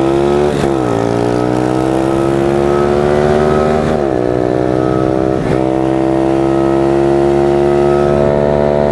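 Small 110cc pit bike engine accelerating hard in a drag race, its pitch climbing and dropping sharply at each upshift, three times, then holding at high revs.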